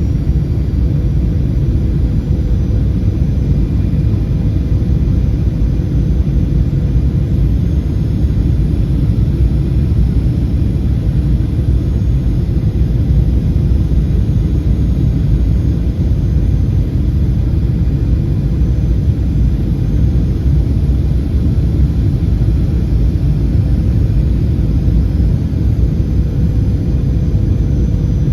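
Steady cabin rumble inside a Boeing 737-800: the low, even noise of its CFM56-7B engines and airflow, with a faint steady hum over it.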